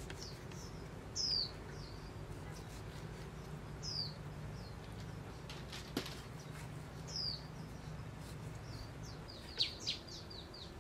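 A bird calling with short, high, down-slurred chirps about every three seconds, then a quick run of sharp chirps near the end, over a faint low hum. A kitchen knife knocks once on a wooden cutting board about six seconds in.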